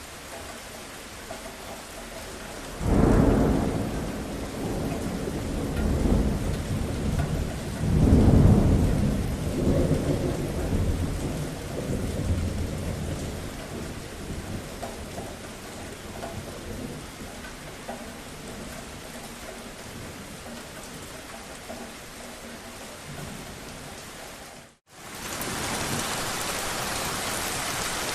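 Steady rainfall with thunder: a sudden low rumble breaks about three seconds in, swells again a few seconds later and rolls away slowly. Near the end the sound cuts out for a moment and the rain resumes as a brighter, even hiss.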